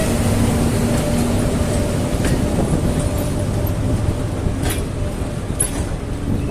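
Passenger train pulling out of the station: a steady rumble of the train moving, with a few short sharp clicks from the wheels on the rails.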